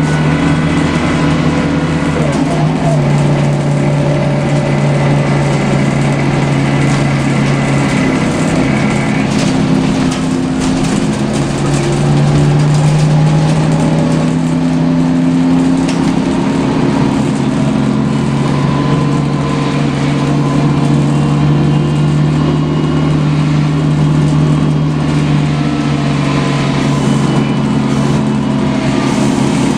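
Scania L94UB compressed-natural-gas city bus heard from inside the cabin while under way: a steady engine drone with a whine that rises and falls as the bus speeds up and slows.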